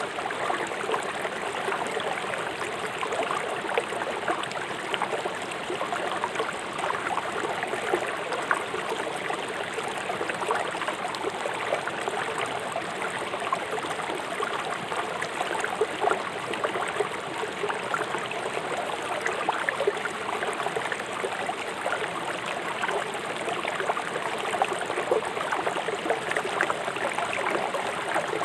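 River water flowing fast over rocks, a steady rushing with constant small splashes and gurgles.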